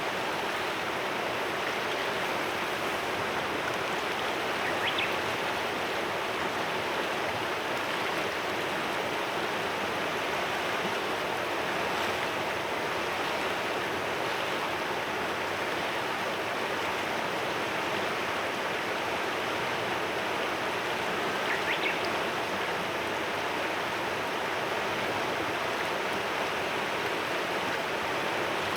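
Clear mountain river flowing over stones: a steady rushing and babbling. Two brief, faint high bird chirps come through it, about five seconds in and again a little past twenty seconds.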